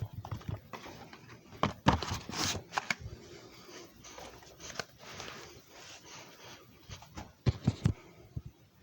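Irregular handling noises: clicks, knocks and short rustles, loudest about two seconds in and again near the end.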